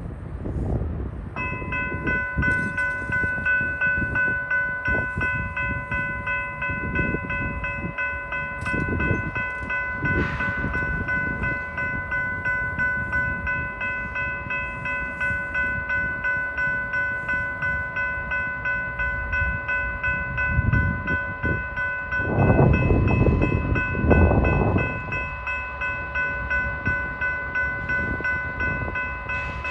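Railway level-crossing warning bell starts ringing about a second in and keeps on in even, rapid strokes, over the low rumble and wheel clicks of a train at the crossing. The rumble swells louder for a few seconds a little past two-thirds through.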